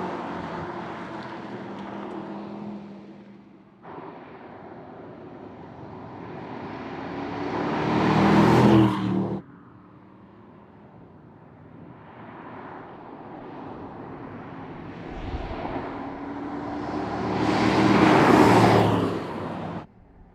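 Mercedes-AMG GT 63's 4.0-litre twin-turbo V8 exhaust as the car drives by. It fades away at first, then twice builds up to a loud pass about eight and eighteen seconds in, each pass cutting off suddenly.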